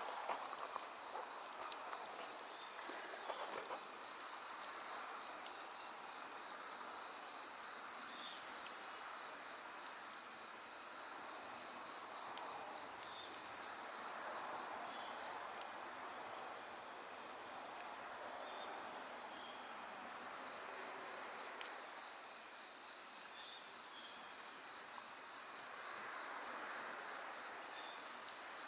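Insects chirping steadily in a dense, continuous chorus, with the soft hiss and occasional sharp crackle of a wood fire burning in a fire pit.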